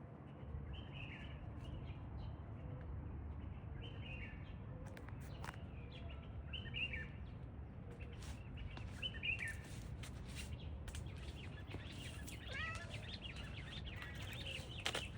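Small birds chirping in short, falling chirps every second or two over a steady low rumble, with a few sharp clicks.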